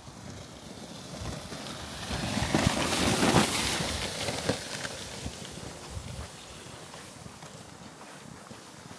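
Footsteps crunching in snow, with a gust of wind that swells to a loud hiss about three seconds in and then dies away.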